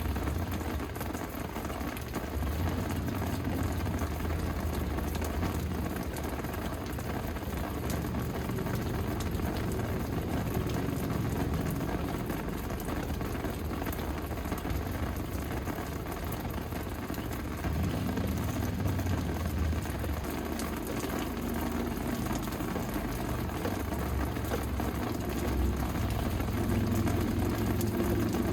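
Steady rain falling, with a low rumble underneath that swells and eases.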